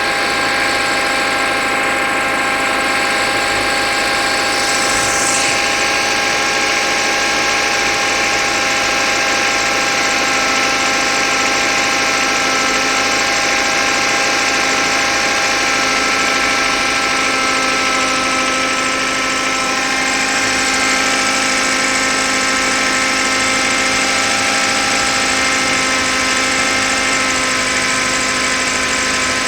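Mazda Familia's ZL-DE 1.5-litre four-cylinder engine idling just after a cold start in −22 °C frost, with a steady whistle carried over it. The owner reckons the whistle comes from the alternator bearings, since the timing-belt rollers and water pump are new.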